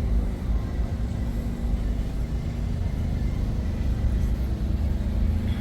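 Steady low rumble of a large vehicle engine running at idle.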